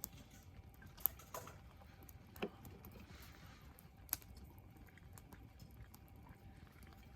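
A few sharp clicks and one duller knock over a faint low background: one click about a second in, a short rattle just after, a knock about two and a half seconds in, and another click about four seconds in.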